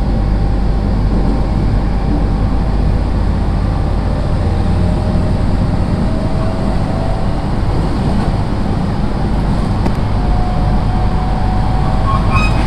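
Running noise inside a JR East 701 series electric train carriage: a steady rumble from the wheels and running gear, with a faint whine that rises slightly a couple of times.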